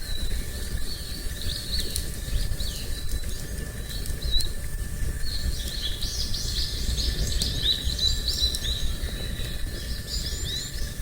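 Small birds chirping in many quick, short calls, thickest through the middle, over a steady low rumble.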